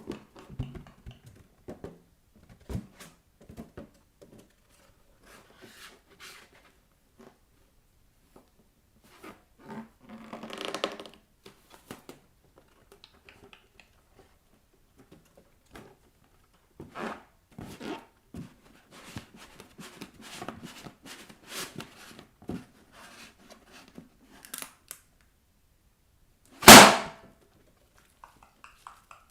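Bare feet tapping and rubbing on balloons, with scattered light taps and a short rubbing rustle, then one balloon bursting with a loud pop near the end.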